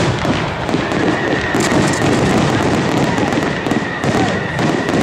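Fireworks display: a dense barrage of aerial shell bursts with continuous crackling. A steady high-pitched tone comes in about a second in and holds.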